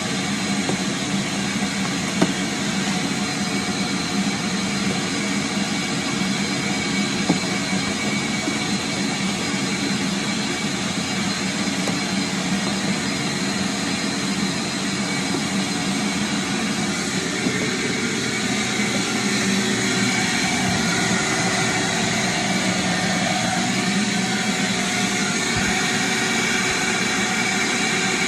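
Vacuum cleaner running steadily, a motor whine over a rush of air, its tone shifting about two-thirds of the way through. Two brief knocks sound in the first few seconds.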